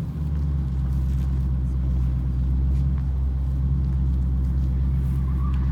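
Hemi V8 engine idling steadily, a low, even rumble just after it has fired up.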